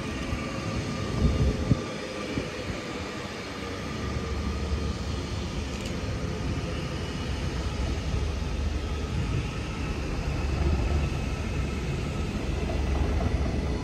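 A train running through the station, with a low rumble that builds from about four seconds in and steady whining tones above it. Two brief low thumps come about a second and a half in.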